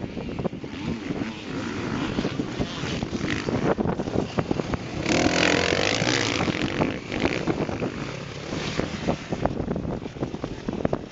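Motocross bike engines running around a dirt track, with one bike passing close about halfway through, its engine loudest and its pitch swinging up and down as it revs.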